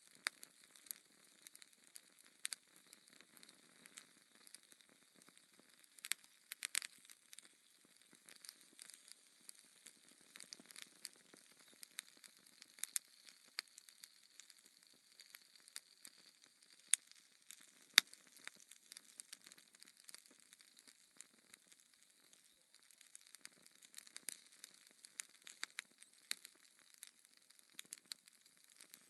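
Wood fire crackling in a fireplace: a faint hiss with irregular sharp pops and snaps from the burning logs, a few louder snaps scattered through.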